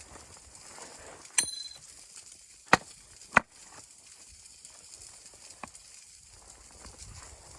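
A few sharp knocks over quiet background noise. The first, about a second and a half in, has a brief metallic ring. Two loud ones follow close together around three seconds in, and a lighter one comes near the end.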